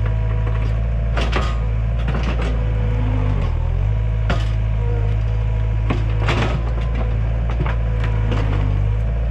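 Takeuchi TL130 compact track loader's diesel engine running steadily under load, sagging briefly about three and a half seconds in, while wood cracks and splinters in many sharp snaps as the machine pushes into a tree and its brush.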